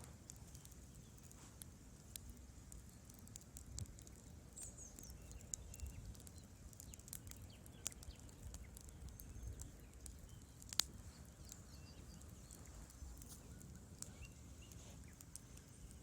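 Wood fire crackling in a fireplace: irregular small pops and snaps over a soft low rumble, with one sharper snap about two-thirds of the way through.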